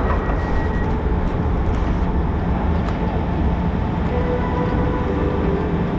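Polregio ED72 electric multiple unit running, heard from inside the carriage: a steady rumble of wheels and running gear, joined by a faint steady hum about four seconds in.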